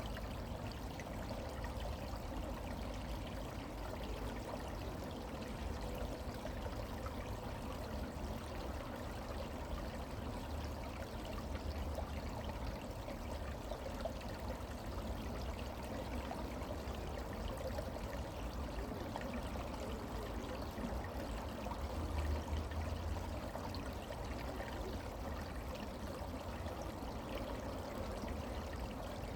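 Brook water flowing steadily over its bed, an even rushing with a low rumble underneath.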